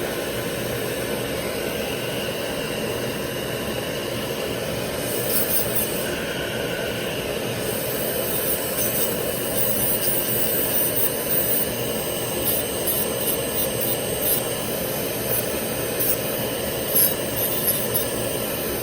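Dental lab handpiece running steadily, its bur grinding and contouring a full-mouth dental restoration to soften a lobe, with scratchy contact noises coming in about halfway through.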